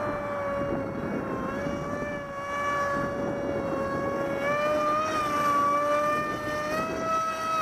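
Electric RC model plane's 2200 kV brushless outrunner motor and 6x4 propeller running with a steady whine, its pitch wavering and rising slightly with small throttle changes. A low rumble of wind on the microphone lies underneath.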